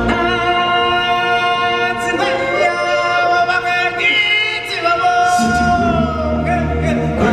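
Music with singing voices holding long notes that slide from one pitch to the next, choir- or chant-like. A deep bass drops out about half a second in and comes back about five seconds in.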